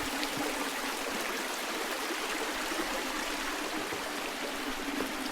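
Mountain creek running steadily, an even rush of flowing water over rocks.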